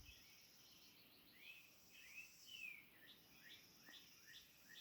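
Faint background birdsong: a few arching chirps, then a run of short rising notes repeated about two or three times a second, over a steady high trill.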